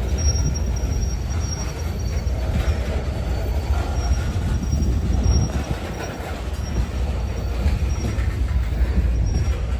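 Freight train cars rolling slowly with a steady low rumble and a faint, intermittent high-pitched wheel squeal.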